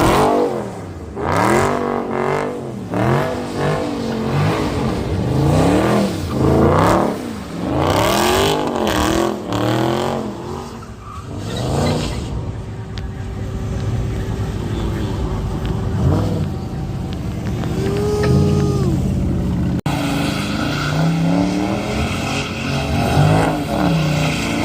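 V8 muscle car engines revved hard again and again, the pitch climbing and dropping in quick sweeps. The revving eases to a steadier run midway, then picks up again near the end.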